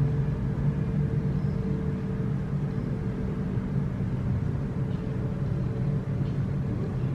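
Steady low vehicle drone with a constant hum, even in level throughout.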